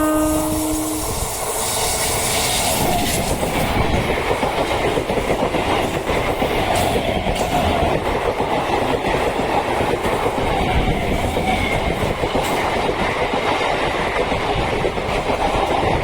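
Express train passing at speed, its wheels clattering over the rail joints in a dense, steady rumble. The last note of its horn cuts off about a second in.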